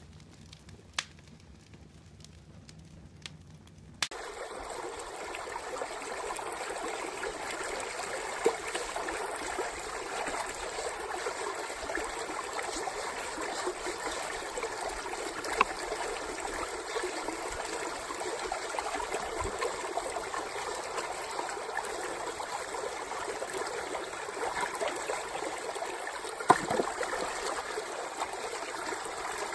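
A few faint clicks, then from about four seconds in the steady rush of a stream of flowing water, with an occasional sharp tick over it.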